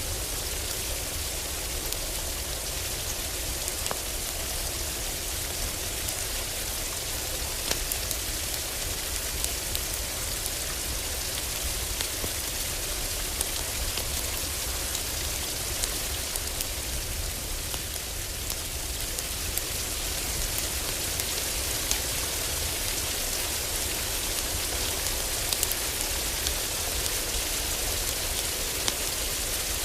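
Heavy rain falling steadily on a roof, with scattered sharp crackles from a wood fire and a steady low rumble beneath.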